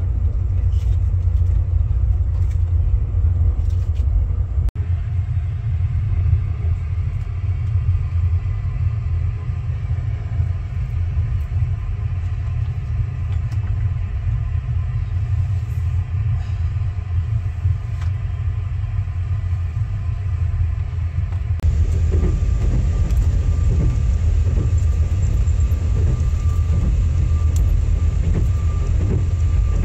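Steady low rumble of a moving Fadak passenger train heard from inside the carriage. The sound changes abruptly about 5 s and again about 22 s in, becoming brighter with a faint steady whine in the last part.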